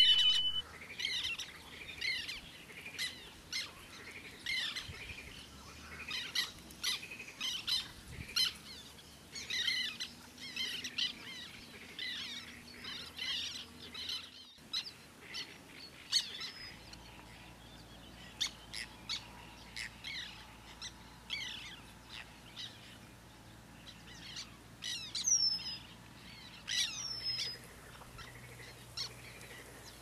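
Eurasian penduline tits calling at their hanging nest: a run of short, high chirps, thick in the first half and sparser later, with two thin whistles sliding downward near the end.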